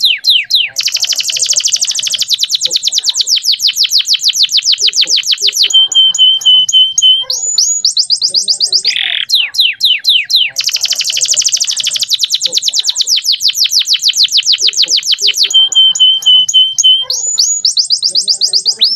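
Male canary singing a long, loud song of fast rolling trills of repeated notes, broken by a held whistled note and a few short down-slurred notes. The same run of phrases comes round twice.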